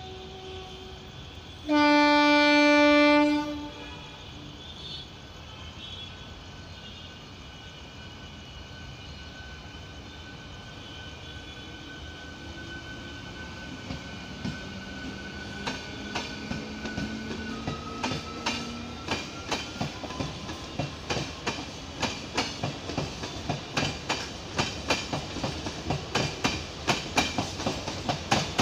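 Passenger train sounding its horn in one loud blast of about a second and a half, about two seconds in, then rumbling past. Its wheels clack over the rail joints, faster and louder in the second half as the coaches go by.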